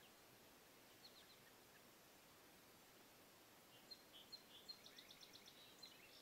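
Faint bird chirping over near silence: a few short high chirps about a second in, then a quick run of chirps near the end.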